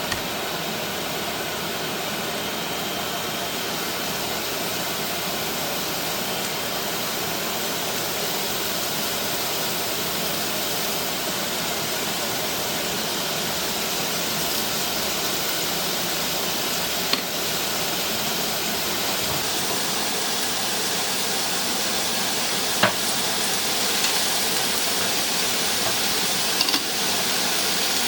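Steady hissing noise with a few sharp clicks, growing slightly louder in the second half.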